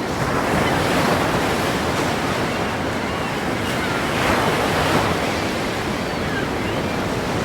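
Ocean waves crashing against a pier: a continuous rush of surf that swells about a second in and again around four seconds in.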